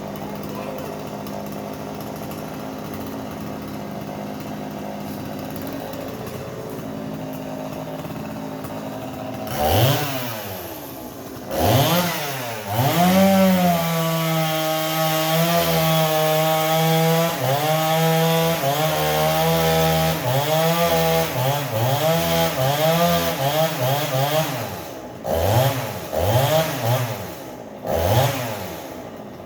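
Chainsaw idling, then revved up and held at high revs while cutting kachnal (orchid tree) wood, its engine pitch sagging and recovering under load. It is then blipped several times near the end.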